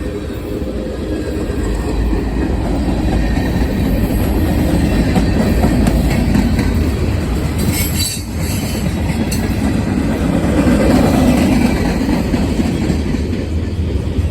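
Freight cars of a passing mixed freight train rolling by: a steady rumble of steel wheels on rail with the rhythmic clickety-clack of wheels over rail joints. A short high-pitched squeal comes about eight seconds in.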